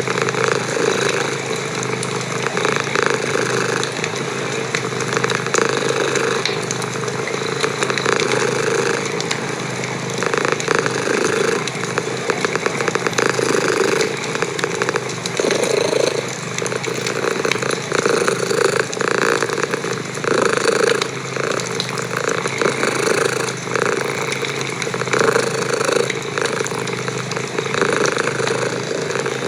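Domestic cat purring loudly and close up, in a steady rumble that swells and fades with each breath, about every second or two.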